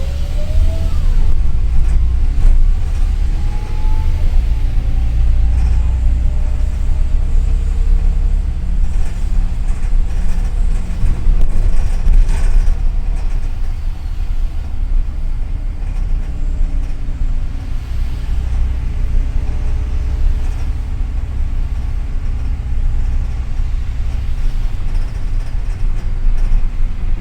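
Double-decker city bus driving, heard from on board: a steady low engine and road rumble, with a faint rising whine about a second in.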